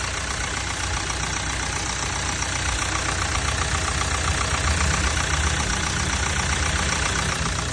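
BMW petrol engine idling steadily and smoothly, with a fine, even ticking over a low rumble: a repaired engine running cleanly.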